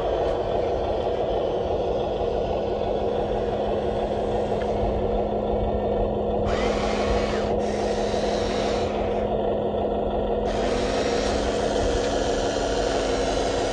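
Small electric motors and gearboxes of a radio-controlled construction model whirring steadily. A higher-pitched whir joins in for about a second partway through, and again for the last few seconds.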